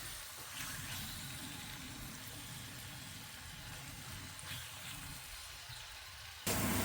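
Spice-marinated chicken pieces frying in oil with a steady sizzle. About six and a half seconds in, the sound cuts suddenly to a louder, steady low hum.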